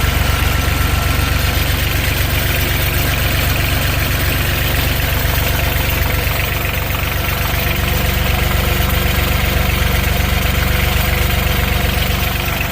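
Mustang skid steer's freshly rebuilt diesel engine idling steadily, with a shaking rattle that the owner puts down to worn motor mounts.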